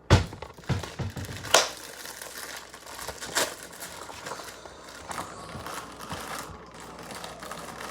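A noodle seasoning packet crinkling and rustling as it is handled, with three sharp knocks: one at the start, one about a second and a half in, and one about three and a half seconds in.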